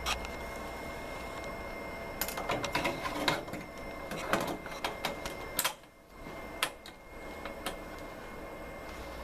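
Irregular clicks and knocks from hands working on a multi-head embroidery machine, over a steady electrical hum with a faint high whine.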